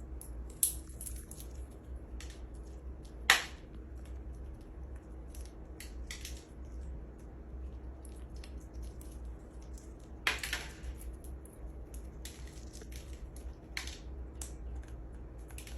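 A parrot cracking a pistachio shell with its beak. Irregular sharp cracks and crunches come throughout, with two louder snaps, one about three seconds in and one about ten seconds in.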